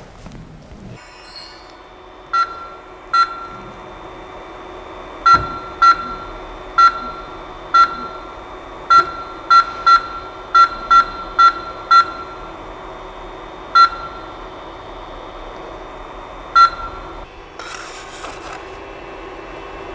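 Short, identical electronic beeps from a Creality CP01 control screen, about sixteen at irregular intervals with a quick run in the middle, over the machine's steady, whining hum. A short burst of rustling noise comes near the end.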